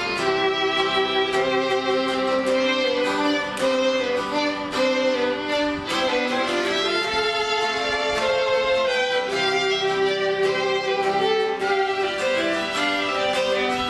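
A band playing a song's instrumental introduction live, a held melody line moving from note to note over a light rhythmic accompaniment, before the vocals come in.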